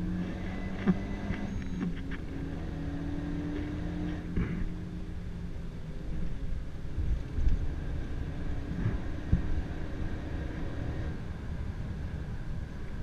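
Renault Mégane RS 275's turbocharged four-cylinder engine pulling hard, heard from inside the cabin over a steady road rumble. Its pitch shifts a couple of times in the first few seconds, then the rumble takes over.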